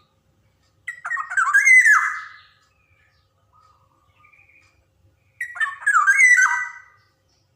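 Black-naped oriole (Javan kepodang) giving two harsh, jumbled calls about four and a half seconds apart, each lasting about a second and a half, with a few faint short notes between them.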